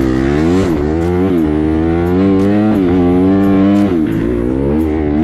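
Honda CRF dirt bike's single-cylinder four-stroke engine being revved in repeated throttle blips, its pitch rising and dropping back several times over a steady running note.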